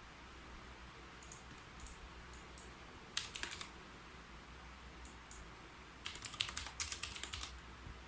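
Typing on a keyboard in short, irregular bursts of key clicks, with a quick flurry a little past three seconds and a longer run of keystrokes from about six seconds in.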